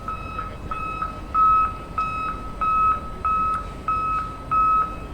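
Toy construction vehicle's electronic beeper sounding a steady, evenly repeating single-pitch beep, like a reversing alarm, about three beeps every two seconds.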